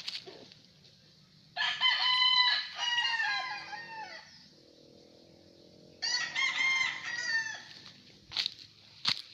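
Gamefowl roosters crowing: two long crows, the first about one and a half seconds in and the second about six seconds in, with a couple of short sharp clicks near the end.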